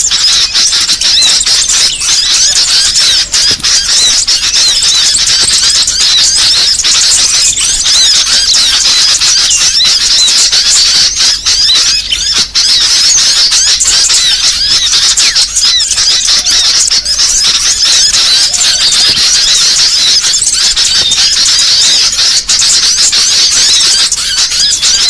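Dense, continuous chattering of many small songbirds, rapid high chirps and twitters overlapping without a break. This is a noisy, agitated bird-lure recording (suara pikat) used to draw small birds in.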